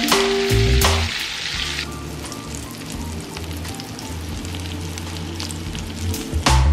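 Egg-soaked brioche French toast roll-ups sizzling as they fry in melted buttery spread in a nonstick pan. The sizzle is strongest for the first couple of seconds, then settles under background music.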